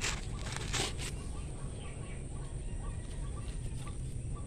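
Faint bird chirps over a steady low rumble, with two short clicks just under a second in.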